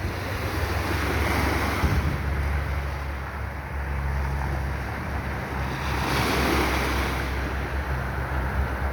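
Sea waves washing in, swelling about a second in and again around six seconds, with wind buffeting the microphone in a steady low rumble.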